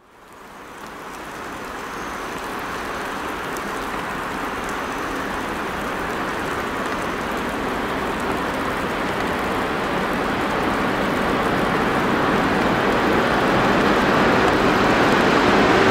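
Freight train hauled by an electric locomotive approaching in the rain: a steady rushing noise that fades in at the start and then grows slowly louder as the train draws nearer.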